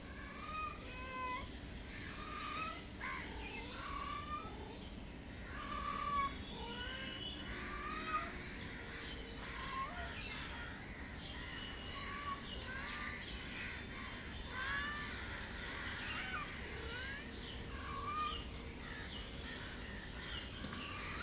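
Several hungry stray cats meowing softly for food, with many short meows overlapping one another.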